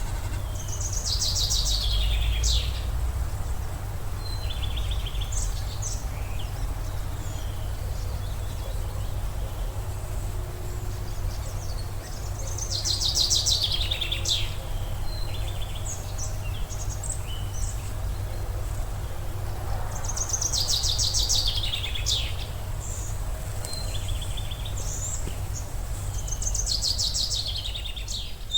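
A songbird singing a fast trilled phrase that falls in pitch, repeated four times at intervals of several seconds, with shorter calls between, over a steady low rumble of wind or background noise.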